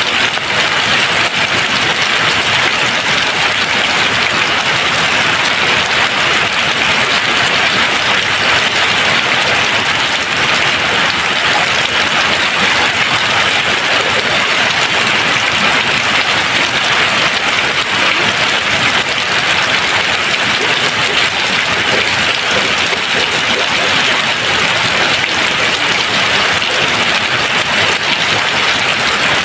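Steady rain falling, an even, dense hiss of drops with no thunder.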